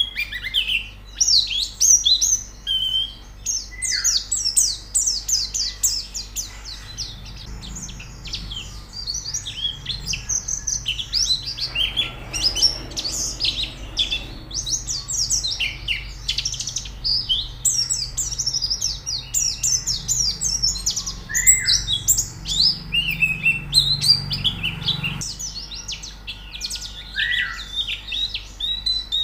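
Several white-eyes (pleci) chirping and twittering rapidly and without pause, their high, quick notes overlapping.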